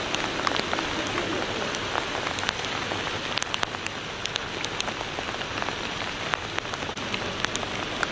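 Steady rain falling on a flooded street, with many sharp ticks of drops striking close by.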